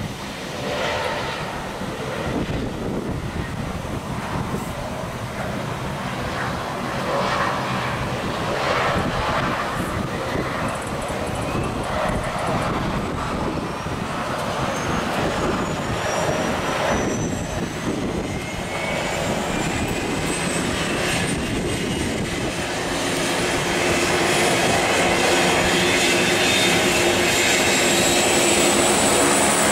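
Boeing 767 jet engines running, a dense noise with a thin turbine whine that climbs slowly in pitch, getting louder about two-thirds of the way through.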